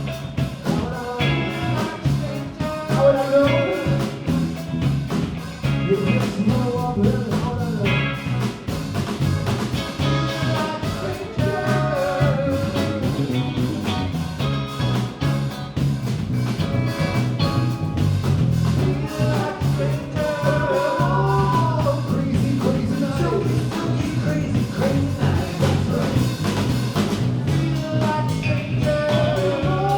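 Live band playing a song with electric guitar and bass, with melodic lines bending in pitch over a steady bass.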